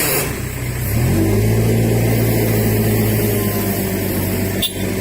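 Truck engine revving up about a second in and then holding high revs under load, as in a pulling attempt to drag a mud-stuck truck out.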